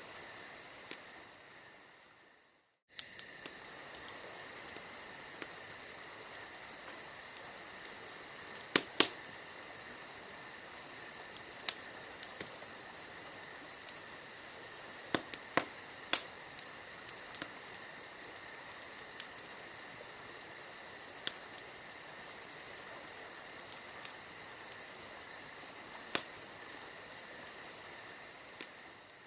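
Campfire crackling, with occasional sharp pops from the burning wood, over a steady, fast chorus of crickets. The sound fades out briefly about two seconds in and returns a moment later.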